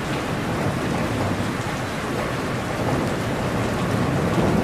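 Steady rain falling on tree foliage, a dense, even hiss of drops, with a low rumble building near the end.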